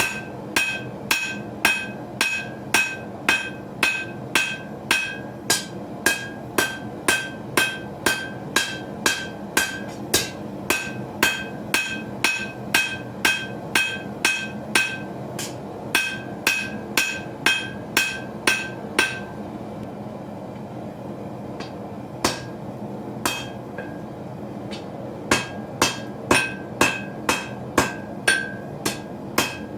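Hand hammer striking hot steel on an anvil at about two blows a second, each blow ringing. Past the middle the hammering stops for several seconds with only a couple of single blows, then the steady rhythm resumes; a steady low rumble runs underneath.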